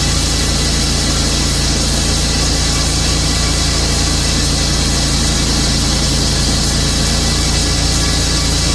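Tru-Cut sawmill's engine running steadily through a cut, its pitch held.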